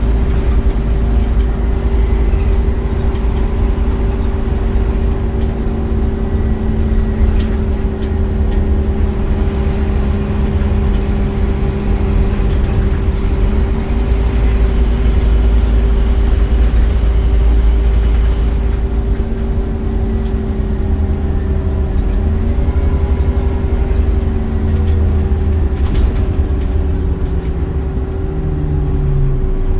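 Scania Omnicity bus's engine and driveline running under way, a heavy low rumble with a steady whine above it. The engine note rises twice, then falls away near the end as the bus eases off.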